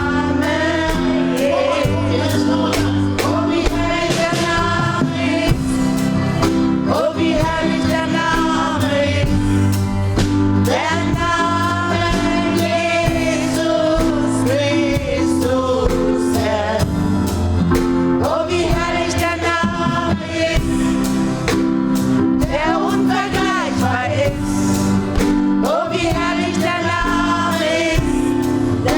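Gospel choir singing live over instrumental backing with a steady beat.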